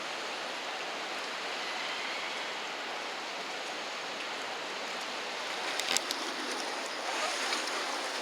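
River water washing and lapping, a steady rush with a few sharp splashes about six seconds in.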